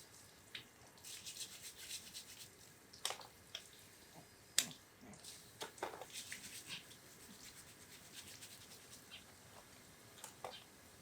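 Faint scrubbing and scraping on hard crab shells in short scratchy strokes, with a few sharp clicks: blue crabs being cleaned and handled.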